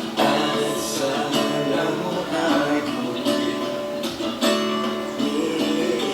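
Music led by a strummed acoustic guitar, with chords struck at a regular pace.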